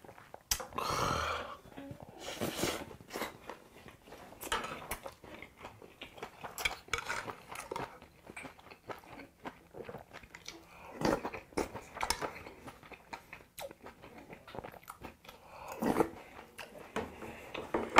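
Close-miked chewing and mouth sounds of a person eating yukhoe bibimbap, with irregular small clicks and smacks and a sip from a bowl.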